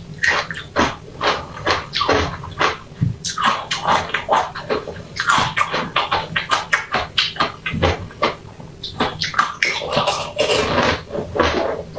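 Mouth eating sounds: a quick, continuous run of bites and chewing, several a second.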